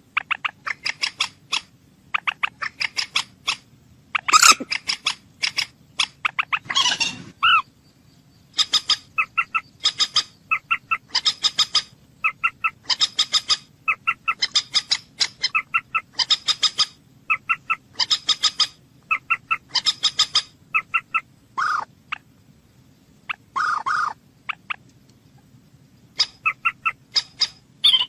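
Common moorhen calling: quick rattling runs of short, sharp clicking notes, repeated about once a second, broken by a few longer, harsher calls.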